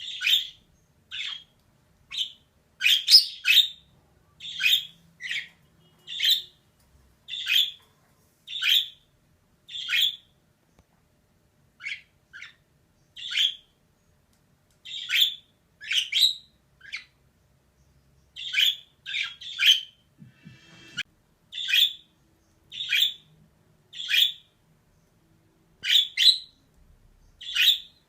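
Female budgerigar giving short, high chirping calls, singly or in quick pairs, about one a second with brief silences between.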